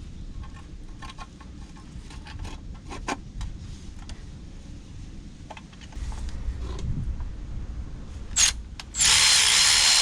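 Hand tools being handled on metal, with scattered light clicks, knocks and scraping. Near the end comes a short loud burst, then about a second of loud rushing noise.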